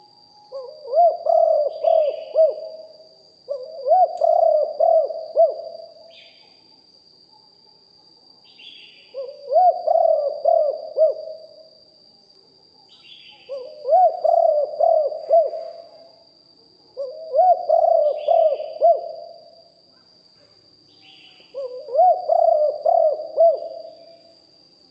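Spotted doves cooing: six phrases of several rolling coos each, one every three to four seconds. Faint short chirps come between the phrases over a thin steady high tone.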